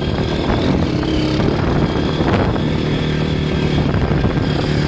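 Honda CRF230 dirt bike's single-cylinder four-stroke engine running steadily under way as it is ridden.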